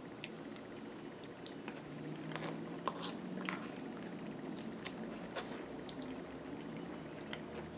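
A person chewing mouthfuls of yogurt and granola, with scattered sharp crunches and clicks as a metal spoon scoops from the bowl.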